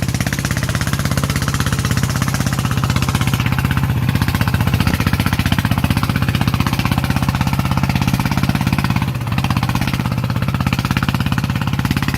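Farm vehicle's diesel engine running steadily under load, with a fast, even knocking beat. There is a brief dip about nine seconds in.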